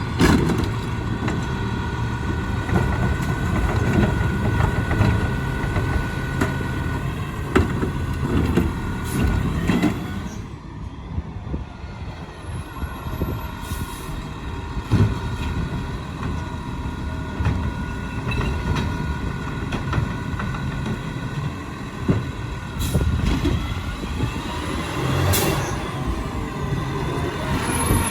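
Peterbilt 520 garbage truck with a Labrie Helping Hand automated side-loader working: diesel engine running steadily, with a steady whine and scattered knocks and clanks.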